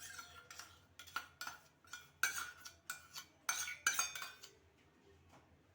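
A spoon knocking and scraping against a dish, a dozen or so sharp clinks with a short ring, as fresh cream is spooned out; the clinking stops about four and a half seconds in.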